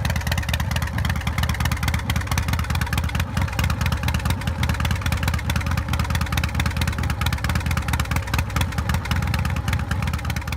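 Motorcycle engine running steadily at idle, with a fast, even pulse of firing strokes and a heavy low rumble.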